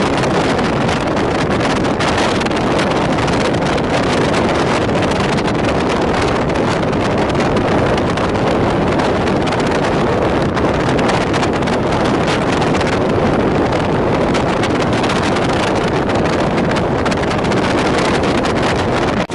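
Steady rush of wind buffeting the microphone over the running noise of a moving passenger train.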